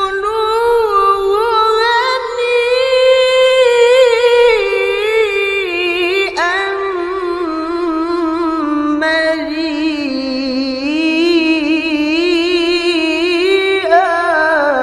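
Quran recitation (tilawah) by a male qari, chanting Arabic verses unaccompanied in a high, ornamented melodic style with long wavering notes. A short break comes about six seconds in, and the pitch climbs near the end.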